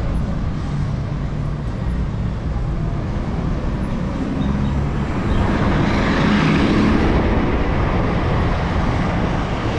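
City street traffic with a low wind rumble on a handlebar-mounted action camera's microphone while riding; a vehicle passing close swells louder for a couple of seconds past the middle.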